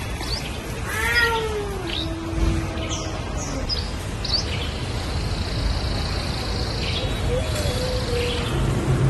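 Hostile cat yowl between two fighting cats: one long drawn-out call about a second in that rises and then sinks lower, and a second, weaker low call near the end.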